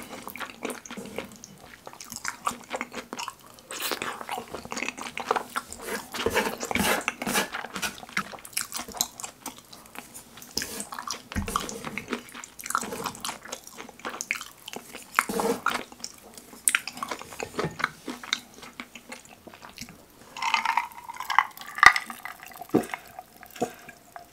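Close-miked chewing and mouth smacking of saucy fried pork with kimchi and cheese (kimchi pizza tangsuyuk), with wooden chopsticks picking and tapping in a metal pan. Near the end, a few ringing clinks of ice in a glass.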